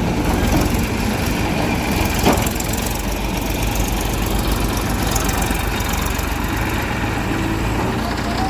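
Heavy diesel engine running steadily with a low rumble, with one sharp knock a little over two seconds in.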